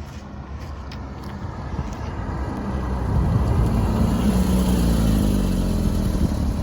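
Car engine growing steadily louder as the car approaches, its pitched note strong and fairly steady from about three seconds in.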